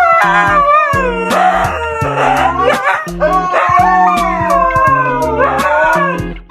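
A dog howling in several long, wavering calls that mostly fall in pitch, over background music.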